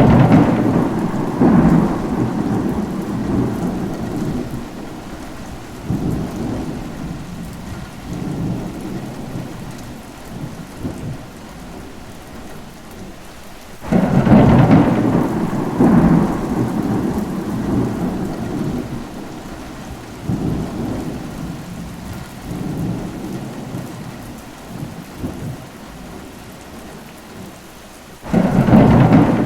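Thunderstorm with steady rain. A thunder roll breaks sharply at the start and rumbles down over several seconds, a second breaks about halfway through, and a third near the end, a repeat roughly every fourteen seconds.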